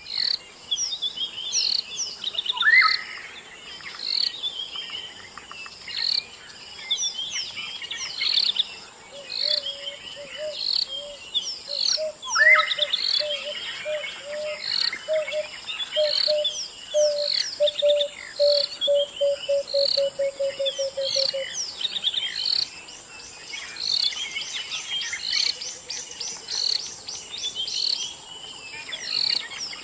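Several songbirds chirping and singing in a dense chorus of short whistles and trills, over a steady high-pitched insect drone. A lower trilling call joins about a third of the way in, its notes coming faster and faster until it stops about two-thirds of the way through.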